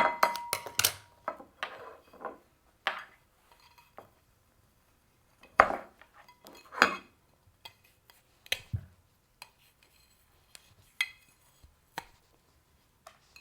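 Ceramic cups and saucers clinking and knocking against each other in irregular taps as they are handled. There is a cluster of clinks at the start and a few louder knocks around the middle.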